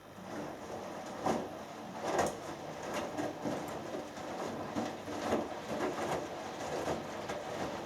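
Hoover Dynamic Next front-loading washing machine drum starting to turn during the first rinse. Water and laundry slosh and tumble, with a heavier slap about once a second.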